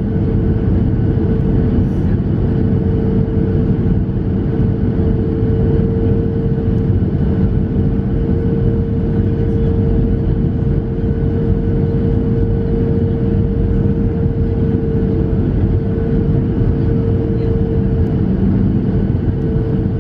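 Steady engine and air noise inside the cabin of a Boeing 737-700, from its CFM56-7 turbofans and the airflow, with a steady hum running through it.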